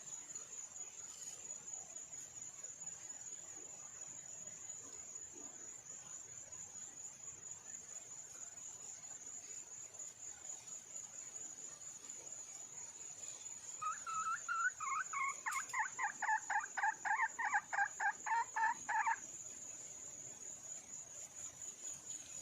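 A steady high-pitched cricket trill runs throughout. About two-thirds of the way in, a wild red junglefowl hen calls for a mate with a rapid run of short, repeated notes lasting about five seconds.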